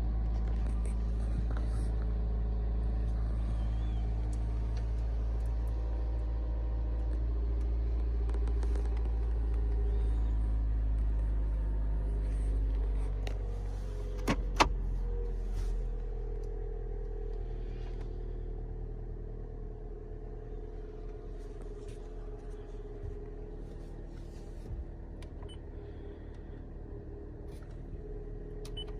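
Toyota Vitz NSP135's 1.3-litre four-cylinder engine idling steadily. It drops a little in level about halfway through, with two sharp clicks just after.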